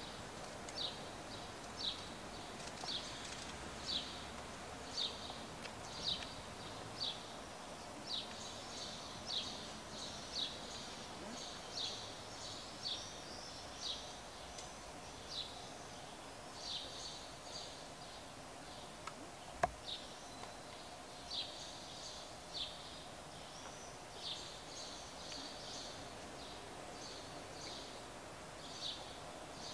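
A small bird chirping over and over, short high chirps coming about once a second, against a quiet outdoor background. A single sharp click stands out about two-thirds of the way through.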